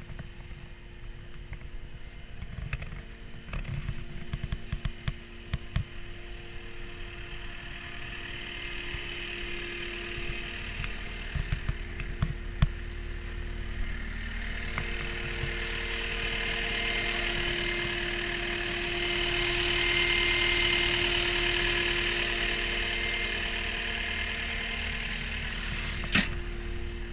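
CAT 236D skid steer loader's diesel engine running steadily at idle. A higher-pitched hiss with a thin whine swells up past the middle and fades again. Scattered light clicks come early on, and a sharp click sounds near the end.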